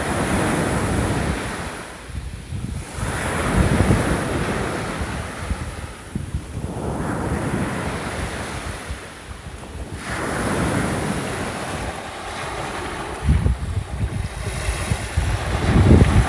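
Gentle surf on a shore: small waves break and wash in, a new swell of rushing water about every three to four seconds. Wind rumbles on the microphone in the last few seconds.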